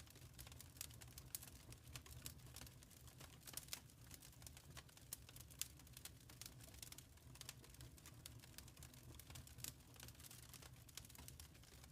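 Wood fire crackling faintly: dense, irregular small snaps and pops over a low steady rumble of the flames.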